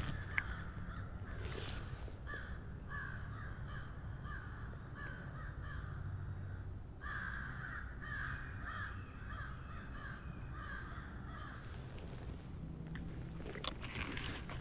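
A bird calling in two long series of repeated notes, about two a second, with a brief break between the series, over a low steady hum.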